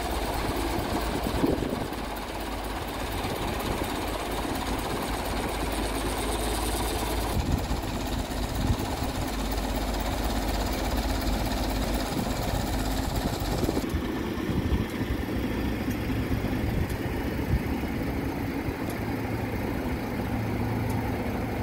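An engine idling steadily, its sound changing abruptly three times as the shots cut.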